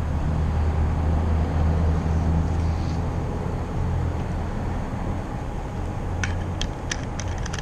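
Car engine and road noise heard from inside the cabin while driving, a steady low drone, with a few sharp clicks near the end.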